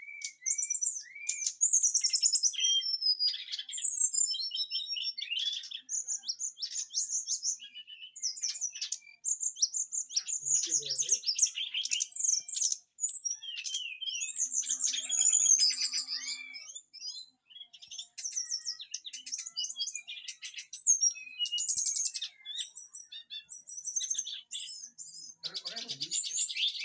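A brown-chested jungle flycatcher (SRDC) singing a fast, varied song of high chirps, rapid trills and harsh stuttering phrases. It is a tutored bird, its song filled with rough 'tembakan' bursts.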